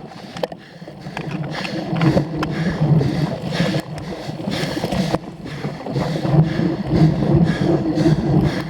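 Bicycle riding hard over rough ground, with wind rushing over the on-board microphone and many short rattles and knocks from the bike.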